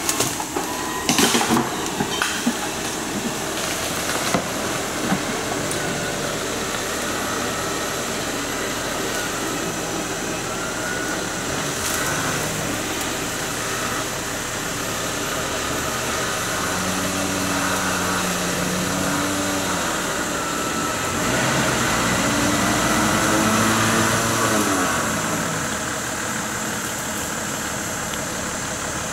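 Toyota FJ80 Land Cruiser's engine running at idle, rising and falling in pitch a few times in the second half, over a steady high hiss.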